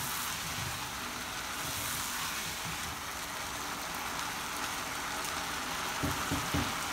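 Chicken pieces frying and sizzling in oil and masala in a non-stick pan, stirred with a slotted spatula, at the bhuna stage after the cooking liquid has dried off. A few knocks near the end.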